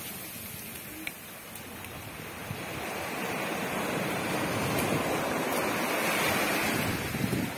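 Ocean surf washing up a beach: a steady rush of water that swells from a softer wash into a louder surge about halfway through.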